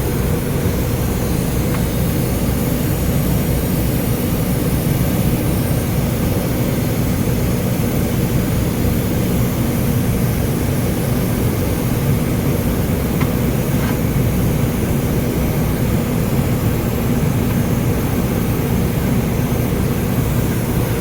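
A steady low machine drone runs throughout, with a few faint clicks.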